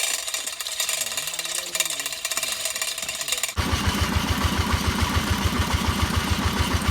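Hammer drill running with a dense, rapid hammering buzz. About three and a half seconds in, the sound changes abruptly to a louder, low pulsing machine noise of roughly eight beats a second.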